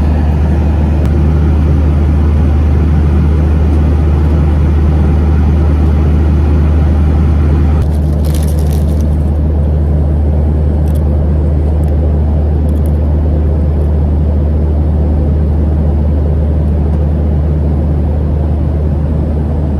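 Airliner cabin noise during the descent: a loud, steady low rumble of engines and airflow. About eight seconds in, a brief hiss sounds, after which the higher part of the noise eases slightly.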